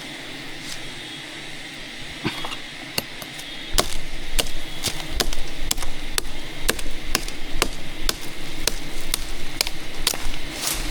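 A tool striking repeatedly in a steady rhythm of about two hard blows a second, like hammering or chopping.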